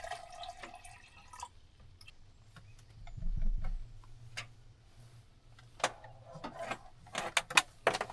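An electric kettle being handled and plugged in: scattered clicks and taps, with a dull thump about three seconds in and a run of clicks near the end, over a faint sound of water.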